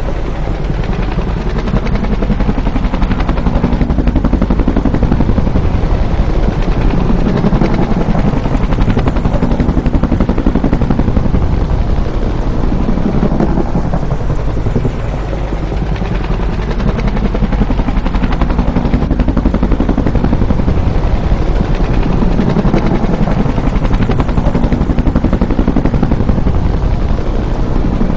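Bell UH-1 "Huey" helicopter running loud and steady, its two-blade main rotor beating rapidly over a deep engine drone that swells and eases every several seconds.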